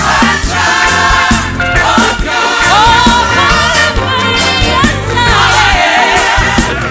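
Gospel choir and worship band performing: voices singing over drums and bass with a steady beat.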